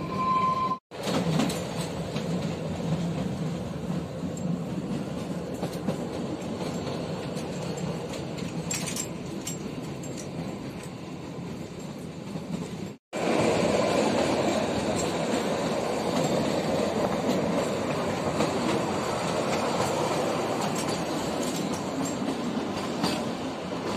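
Kalka–Shimla narrow-gauge toy train running on its track, with a steady rumble and rattle of wheels on rails. The sound cuts out sharply for a moment twice, about a second in and about halfway, and is a little louder after the second break.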